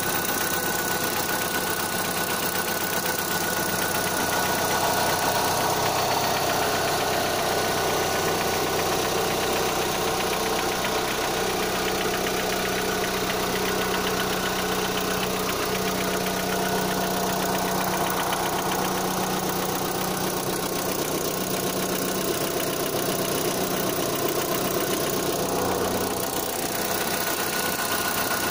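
Opel Zafira A's 1.8-litre X18XE1 four-cylinder petrol engine idling steadily, with the slight intake-manifold knock that remains after the manifold was swapped for a used one. A steady hum joins in about eleven seconds in and stops shortly before the end.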